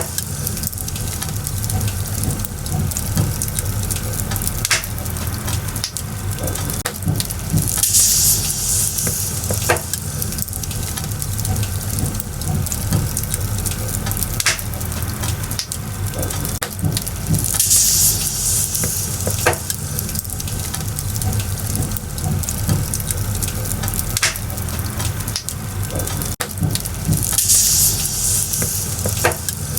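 Wood fire burning and crackling, with a steady low rumble and sharp pops every few seconds. A high hiss like sizzling swells up about every ten seconds.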